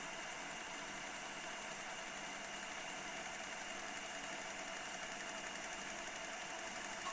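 Steady mechanical running noise with an even hiss from a Panasonic NV-SD300 video recorder in operation, unchanging throughout.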